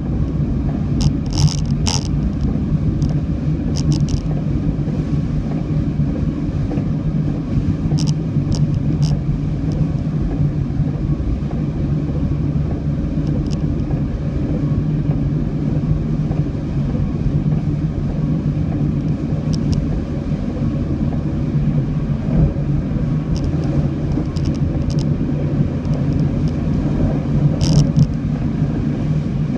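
Steady low rumble of a car's engine and road noise, as heard from a moving vehicle, with a few short high-pitched ticks now and then.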